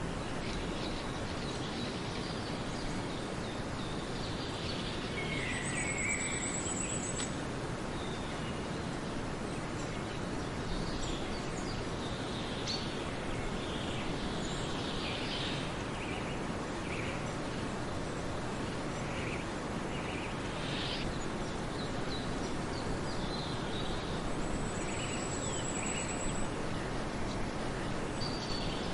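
Birds chirping with scattered short calls over a steady outdoor background hiss, and a thin, high trill heard twice.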